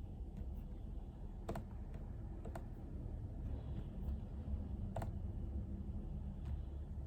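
Occasional keystrokes on a computer keyboard: a handful of scattered single clicks a second or more apart, over a low steady room hum.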